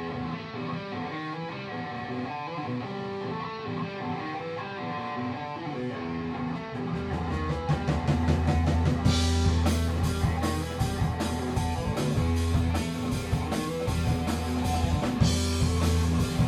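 Rock band rehearsing: an electric guitar riff plays alone at first, then bass and drums come in about seven seconds in, with cymbal crashes from about nine seconds in.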